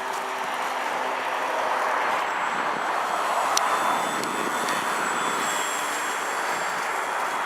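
Radio-controlled model airplane flying, its motor and propeller making a steady drone that swells and fades as it passes, with a faint high whine. A single sharp click comes about halfway through.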